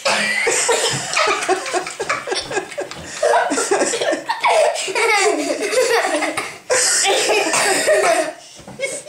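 Hearty laughter from the people in the room, breaking out all at once. It runs almost without pause, with a short break about two-thirds of the way through, and dies down near the end.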